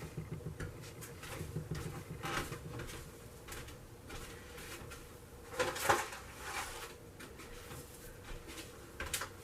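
Objects being handled: scattered light knocks and rustles, with a louder clatter about six seconds in.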